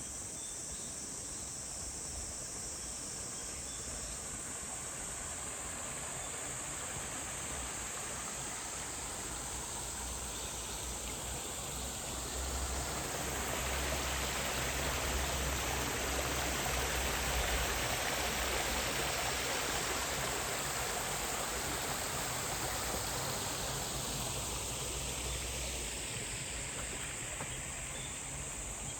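Running water of a small valley stream, which swells louder through the middle and fades again, over a steady high drone of insects.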